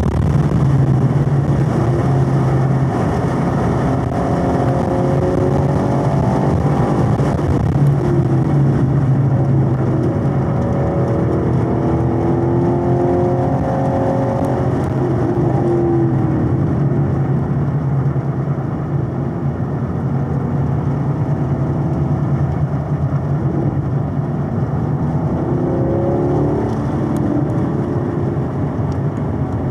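2022 Camaro SS 1LE's 6.2-litre LT1 V8 running hard on track, heard from inside the car, its pitch rising and falling again and again with throttle and gear changes. Steady wind and tyre noise runs underneath.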